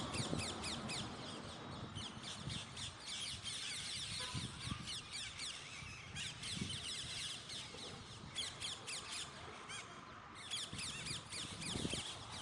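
Many birds chirping and chattering at once: a dense stream of quick, high, overlapping chirps that thins out briefly a few times.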